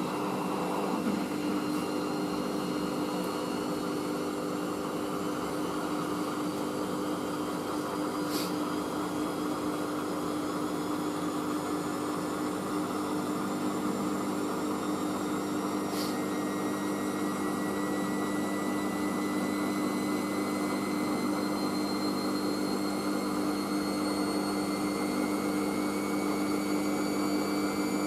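Hoover SIX AAA160 washing machine spinning its drum in a 400 rpm intermediate spin: a steady motor hum with a high whine that rises slowly. Two short clicks, about eight and sixteen seconds in.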